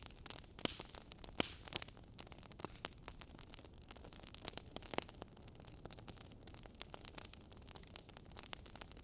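Wood fire crackling in a fireplace: irregular sharp pops and snaps over a low steady hiss, with a few louder pops about a second and a half in and again near the middle.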